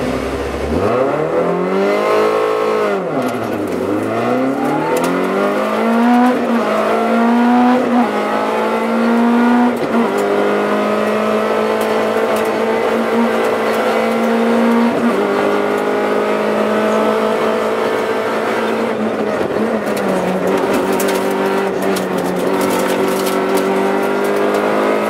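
Peugeot 106 S16 rally car's 1.6-litre 16-valve four-cylinder engine, heard from inside the cabin, pulling away hard and accelerating through the gears. The revs climb and drop back at each upshift, then hold fairly steady and high with a few short drops.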